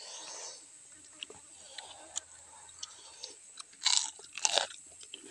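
Crunchy chewing and biting of crispy deep-fried eel, with scattered small crunches and a cluster of loud crunches about four seconds in.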